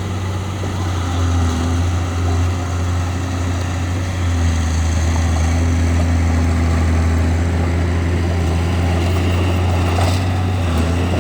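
Bulldozer's diesel engine running steadily with a deep, even drone, and a brief knock near the end.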